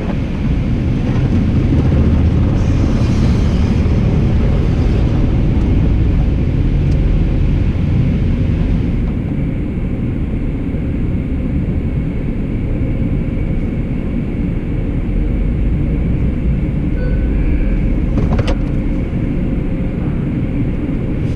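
Steady low rumble of a car running as it drives slowly into an automatic car wash bay, heard from inside the car; a single short click near the end.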